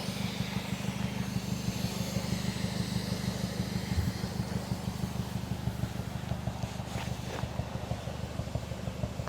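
Exhaust of a 2006 Mazda 6 MPS's turbocharged 2.3-litre four-cylinder idling steadily, heard at the dual tailpipes as an even low rumble.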